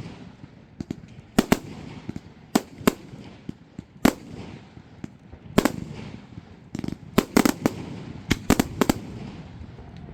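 Fireworks display: shells bursting in sharp bangs at irregular intervals, some coming in quick clusters of three or four, with a low rumble between them.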